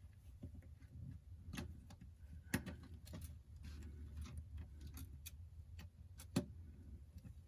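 Sparse small clicks and taps, irregularly spaced, from tiny parts and hand tools being handled on an opened iPhone 8 during reassembly, with two sharper clicks about a third of the way in and near the end, over a low steady room hum.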